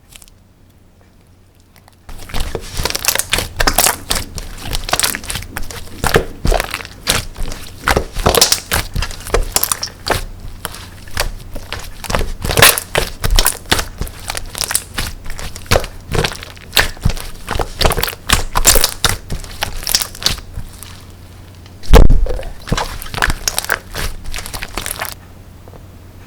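Slime being squished and pressed by hand, making a dense run of wet crackling and popping clicks. It starts about two seconds in and stops shortly before the end, with one louder low thud near the end.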